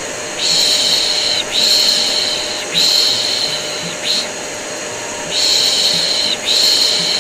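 Rhythmic 'shh' shushing ('piş piş'), about a second per shush in runs with short breaks, over the steady drone of a vacuum cleaner motor: white noise for soothing a colicky baby.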